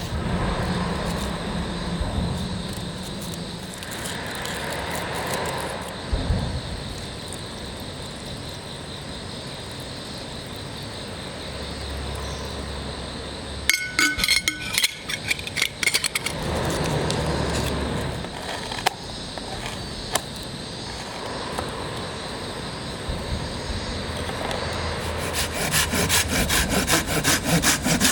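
Hand saw cutting firewood in repeated back-and-forth strokes. About halfway through there is a short burst of quick sharp clicks, and a run of fast strokes near the end.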